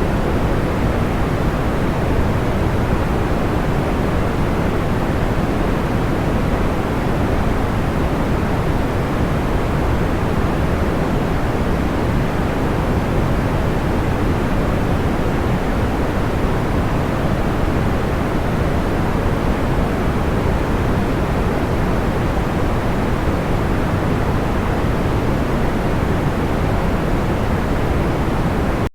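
Steady synthetic noise of the kind used as a sleep aid: a deep, even hiss weighted toward the low end, unchanging throughout, with no distinct crackles or pops.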